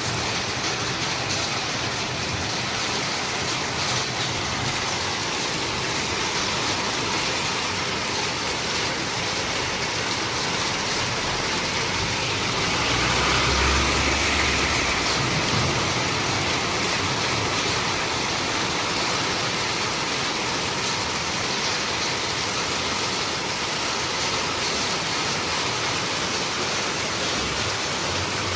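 Steady rain falling, a continuous even hiss. About halfway through the hiss swells for a few seconds with a low rumble under it.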